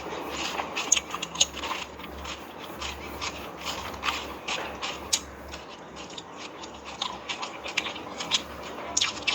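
Crisp pani puri shells crunched and chewed in quick succession, with many short, irregular crackles.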